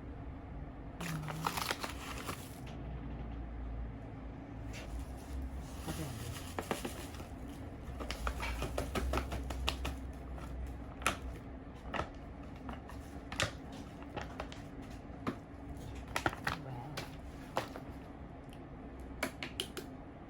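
Rustling and scraping with many sharp little clicks and taps as ground coffee is put into a drip coffee maker and the machine is handled.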